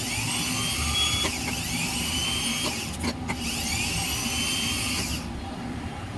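Bosch starter motor spinning freely on a bench test after servicing, a high electric whine whose pitch sweeps up as it spins. It cuts out briefly about three seconds in, spins up again, and stops about five seconds in.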